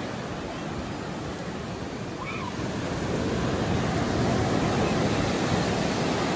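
Ocean surf washing onto a beach, a steady rush of breaking waves that swells louder about three seconds in.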